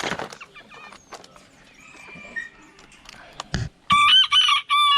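A BB red bantam rooster crowing once near the end: a loud, high-pitched crow in several short segments ending in a long falling note.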